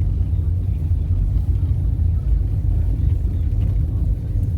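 Steady low rumble of a car driving, heard from inside the cabin as road and engine noise.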